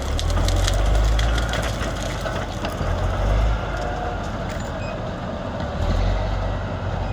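A large crawler bulldozer's diesel engine rumbling under load, its level rising and easing, with wood cracking and snapping as it pushes felled spruce trees.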